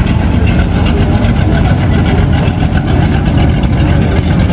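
Loud, steady engine rumble of classic cars and hot rods running at low speed.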